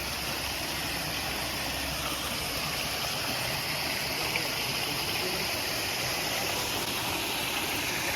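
Running water with a steady, even rush.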